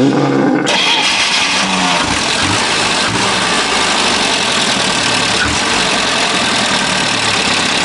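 GAZ-21 Volga's four-cylinder petrol engine starting: it catches abruptly right at the start, then runs at a steady idle.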